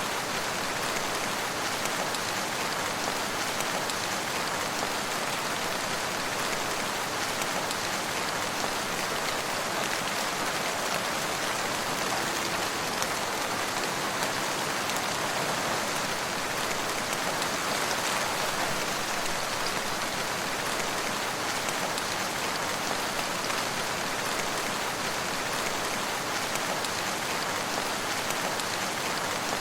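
Steady rain falling and pattering on surfaces, an even hiss with no single drops or thunder standing out.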